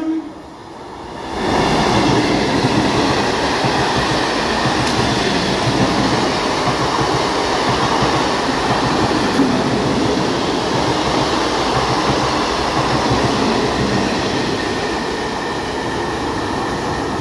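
Electric local train (EMU) passing at high speed: a loud, steady rush of wheels and coaches over the rails with wheel clatter. It rises about a second in and eases slightly near the end as the train draws away.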